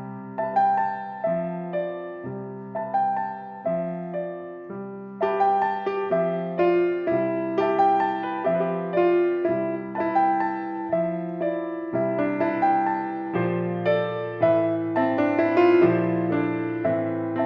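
Piano duet, four hands at one piano, starting a gentle piece built on a repeating flowing figure. The texture fills out about five seconds in, and a lower bass line enters around thirteen seconds.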